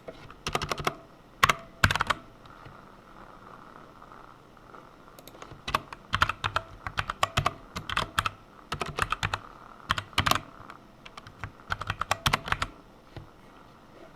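Typing on a computer keyboard. A short burst of keystrokes and two louder single key presses are followed by a pause of about three seconds, then a longer run of steady typing that stops shortly before the end.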